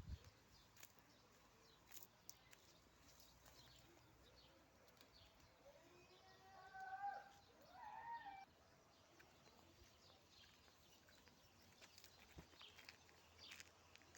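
Two faint pitched animal calls, about six and a half and eight seconds in, over near silence with a few faint ticks.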